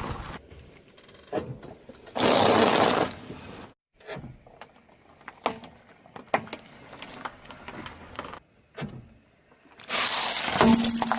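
Objects being crushed under a car tyre. There are two loud crunching, crackling bursts of about a second each, with scattered cracks and pops between them.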